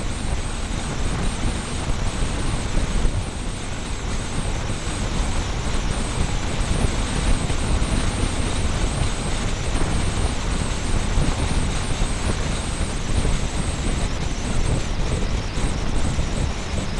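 A motorbike on the move, heard through a small camera cable-tied to the bike: steady wind rush and road noise with a heavy, buffeting low rumble, and a thin, steady high whine throughout.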